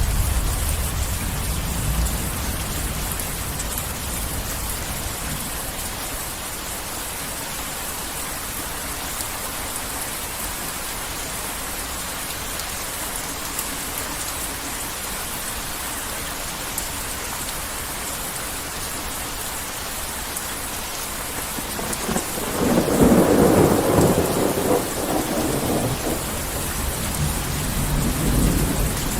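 Heavy rain falling steadily, with the tail of a low thunder rumble at the start. About 22 seconds in a louder roll of thunder builds and rumbles for several seconds, and more rumbling follows near the end.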